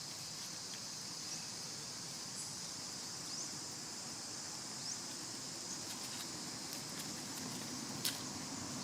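Steady high-pitched insect drone, with a few short rising chirps over it and one sharp click near the end.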